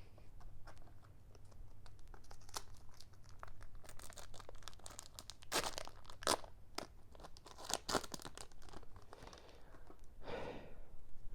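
Foil wrapper of a Pokémon booster pack being torn open and crinkled in the hands: a run of sharp crackles and rips, a few of them louder around the middle.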